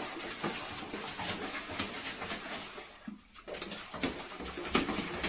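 A pet animal moving about, making irregular short taps and scuffs, with a brief lull about three seconds in.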